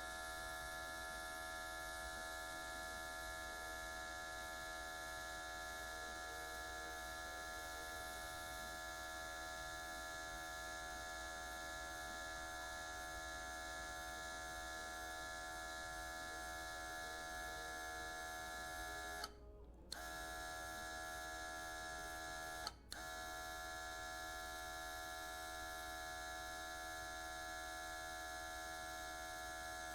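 A steady hum made of many steady tones, unchanging except for two brief dropouts about two-thirds of the way through.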